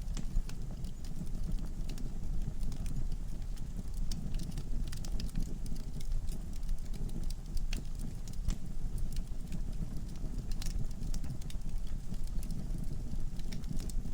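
Wood fire burning in a fireplace: a steady low rumble of flames with frequent irregular crackles and sharp pops from the logs.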